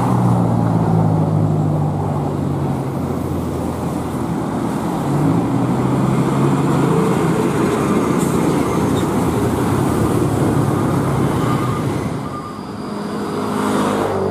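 Vehicle engine running on the road, its pitch dropping and then rising again with engine speed, over steady road noise.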